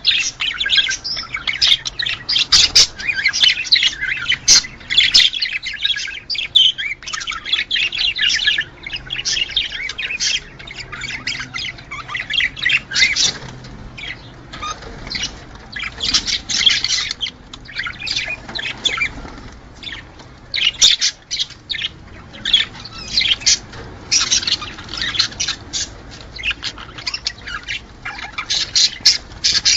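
Budgerigars chattering and warbling: a dense, rapid stream of chirps and squawks with a few short lulls, the chatter of budgies in breeding condition.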